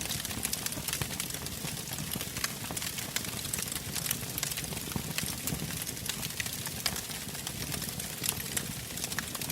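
Wood fire burning in a fireplace, crackling with frequent small irregular pops over a steady low rushing of the flames.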